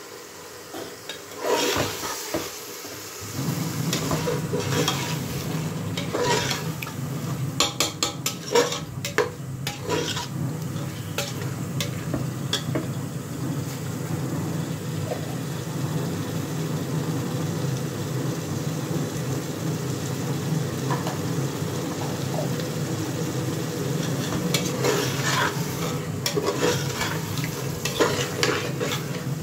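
White lentils frying in oil and masala in an aluminium pressure cooker: a steady sizzle that sets in a few seconds in. A perforated metal skimmer scrapes and clinks against the pot as it stirs, most busily in the first ten seconds and again near the end.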